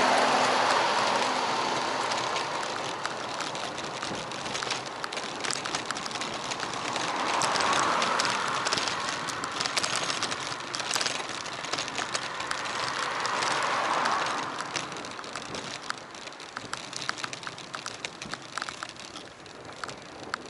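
Road noise of a bicycle ride heard through an action camera: a steady rush of wind and tyres with scattered light clicks, swelling three times as traffic passes.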